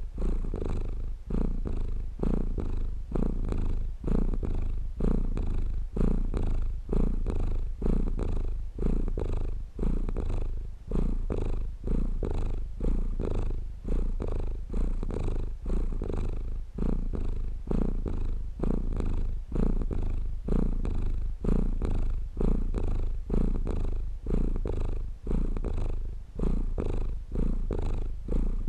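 A domestic cat purring close up: a steady low rumble that swells and dips with each breath, about once a second.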